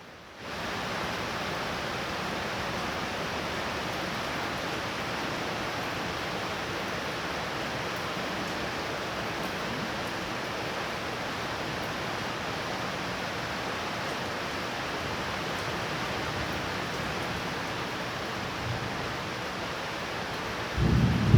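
Steady heavy rain falling, an even hiss. Near the end a loud, low thunder rumble begins.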